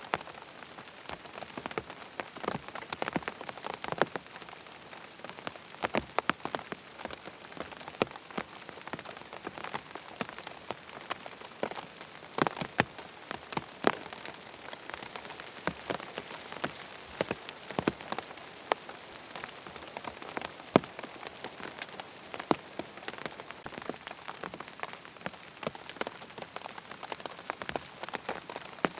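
Steady rain falling, with frequent sharp, irregular ticks of heavy drops striking a hard surface.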